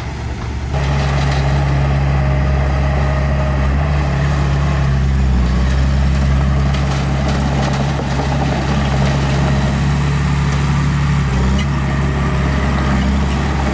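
Diesel engine of a small bulldozer running steadily. It gets louder about a second in, then holds at a constant pitch.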